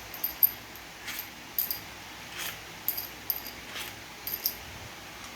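Light metallic clicks and clinks of transmission parts and hand tools being handled, about ten scattered sharp ticks with no steady rhythm.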